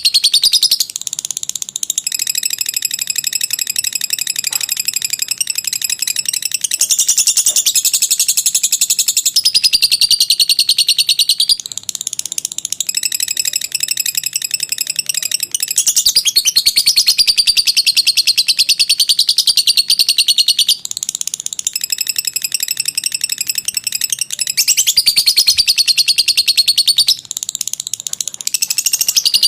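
Lovebird ngekek: a rapid, shrill chattering trill sung in long unbroken runs of several seconds each, with only short pauses between runs.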